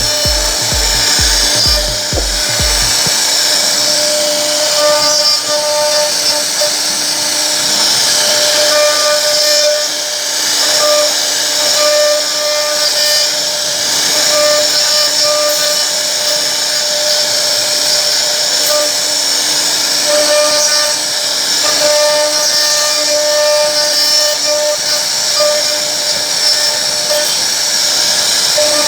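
CNC router spindle cutting into wood with a steady high-pitched whine.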